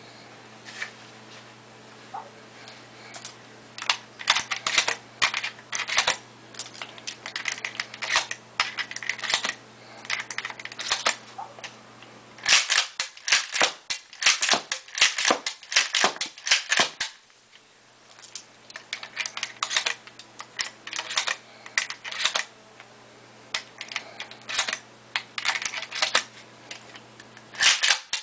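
Irregular sharp clicks and clacks of an APS CAM870 airsoft gas shotgun's parts being handled and worked, some in quick clusters, over a low steady hum.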